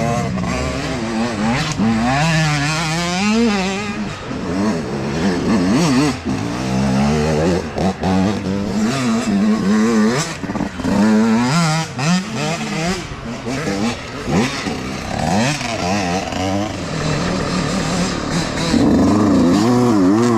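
Youth dirt bike engines racing, the throttle opening and closing over and over so the pitch keeps rising and falling, with more than one bike heard at once at times.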